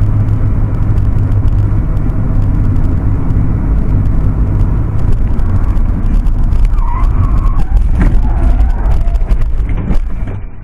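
Loud, steady low rumble of a road vehicle in motion, with a brief wavering higher tone about seven seconds in.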